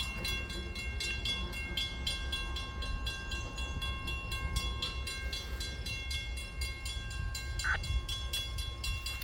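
An Amtrak train passing on the rails, with a steady low rumble and several thin high tones held above it. There is a brief squeak about three quarters of the way through.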